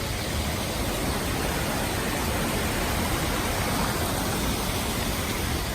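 Steady rush of falling water from the Krka River's waterfalls and cascades.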